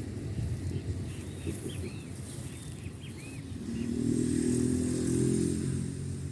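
A motor vehicle engine passing: a low running drone that grows louder about four seconds in and fades near the end, over a steady low outdoor rumble. A few faint high chirps sound about a second and a half in.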